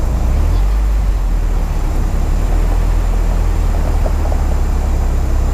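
Mazda Miata's engine idling, a steady low rumble picked up by a camera mounted on the hood.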